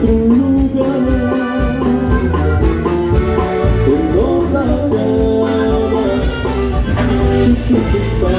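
Live norteño band playing an instrumental passage: held melody notes, a few sliding, over bass and a steady drum beat.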